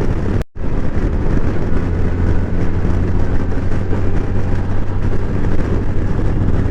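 Honda Gold Wing motorcycle cruising at road speed: a steady low flat-six engine drone mixed with wind rush. The sound drops out completely for a moment about half a second in.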